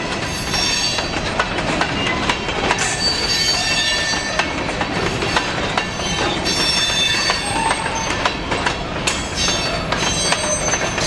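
Covered hopper cars of a long freight train rolling steadily past, their wheels clicking and clanking on the rails. High wheel squeal comes and goes several times.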